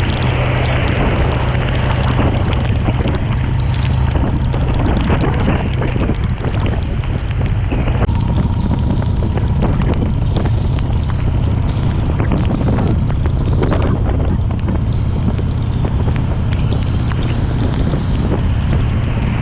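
Motorcycle at expressway speed in heavy rain: loud wind buffeting the microphone over a steady low engine drone, with many sharp little ticks from raindrops striking.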